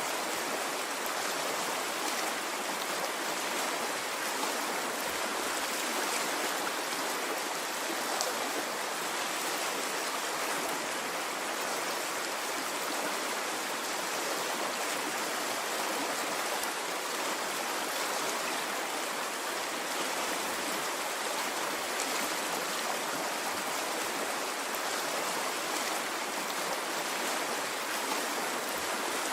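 Water running in a stream, a steady even rush with no swells or breaks.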